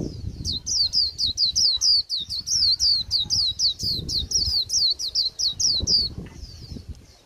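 Young white-eye singing its 'líu' song: a fast run of high, falling notes, about six a second, that stops about six seconds in, over a low rumbling background.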